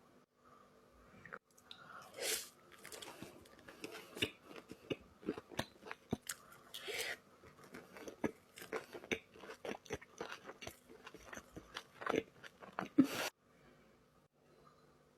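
Close-miked eating of sushi: bites and chewing with many quick mouth clicks and a few louder bites, cutting off suddenly near the end.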